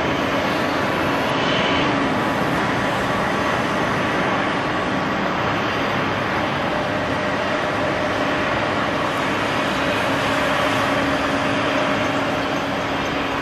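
Jet airliner engines running: a steady, even rush of noise with faint steady whining tones, one of which falls slightly about two seconds in.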